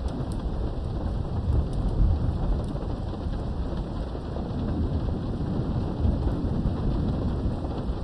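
Steady rain with a low, rolling thunder rumble underneath, swelling about two seconds in and again past the middle.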